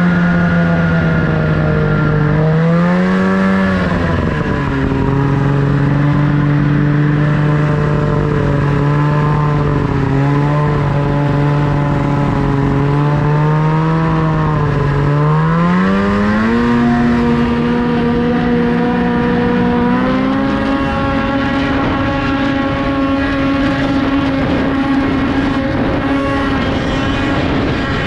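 Snowmobile engine running under changing throttle. Its pitch swings up and back down briefly about three seconds in, holds low for a while, then climbs in two steps past the middle and stays at the higher pitch.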